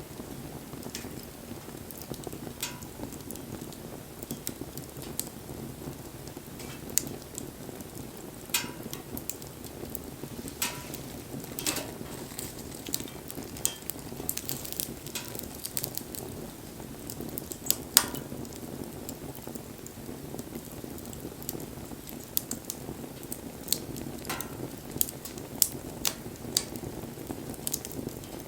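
Wood campfire burning: a steady low rush of flame with irregular crackles and pops, the sharpest about eighteen seconds in.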